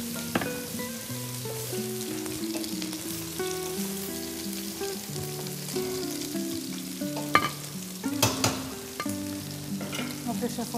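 Food sizzling in a pot as a biryani base of onions, tomato and rice is stirred with a wooden spoon, with the spoon knocking against the stainless-steel pot a few times.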